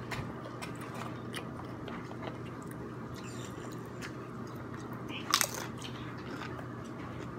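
A person chewing food with small crunching and mouth clicks, over a faint steady low hum, with one louder, sharp crunch about five and a half seconds in.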